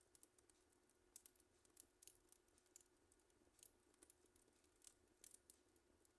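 Wood fire crackling faintly, with irregular sharp snaps and pops coming several times a second.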